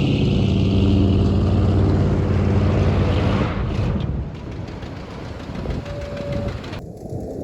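1973 Chevy K20 pickup's engine running at a steady pitch, then fading away about four seconds in.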